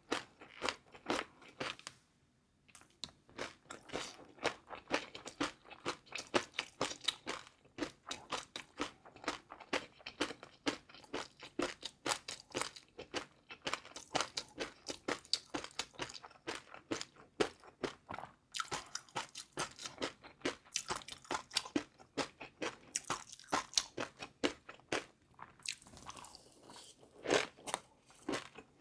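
Close-up chewing of crunchy food: rapid, crisp crunches several times a second, with a short pause about two seconds in.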